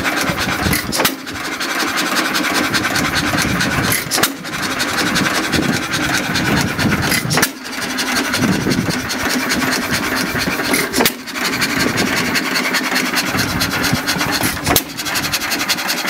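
John Deere 3 HP hit-and-miss stationary engine running with a steady mechanical clatter, broken by a sharp knock about every three and a half seconds.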